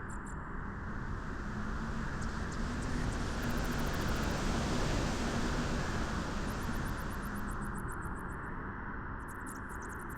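Beach wind blowing steadily, with a gust that swells over the first few seconds and dies away after about seven seconds. A few short runs of faint, quick high ticking sit on top.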